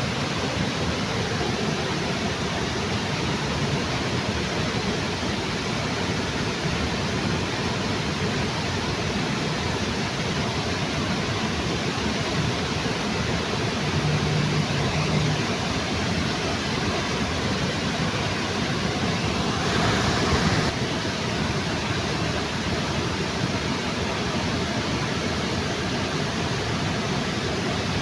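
Waterfall rushing with a steady, even hiss. About two-thirds of the way in it briefly swells louder for about a second.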